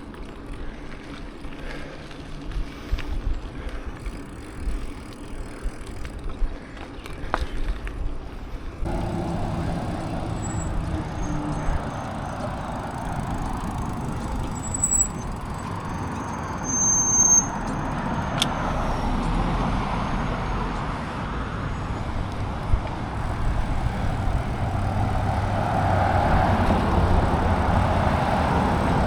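Wind rushing over the microphone of a camera carried on a moving bicycle, with road noise; it jumps suddenly louder about nine seconds in, with a few short high squeaks near the middle.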